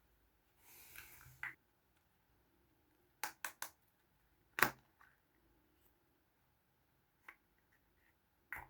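Small plastic toys being handled: a short rustle about a second in, then three quick sharp clicks, a louder single click, and a few lighter taps near the end.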